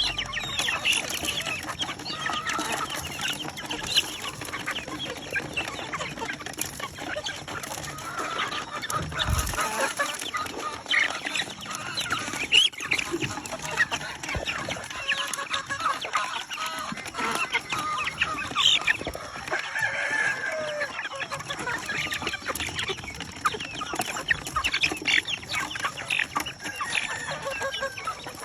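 Many gamefowl chickens clucking and calling over one another, with roosters crowing now and then.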